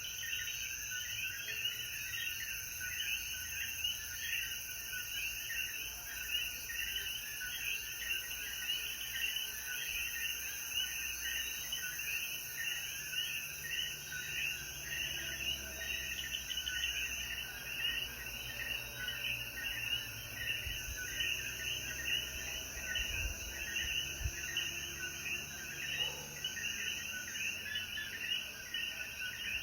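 A chorus of Puerto Rican coquí frogs after rain: many overlapping two-note "co-quí" calls repeating without pause, over a steady high-pitched hum.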